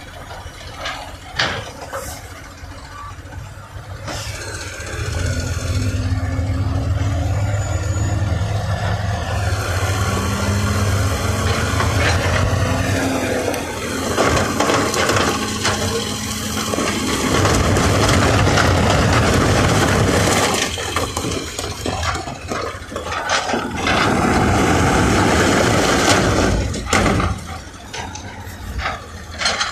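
Diesel engine of heavy earthmoving machinery running and working under load, its revs rising and falling, with louder, noisier stretches in the second half.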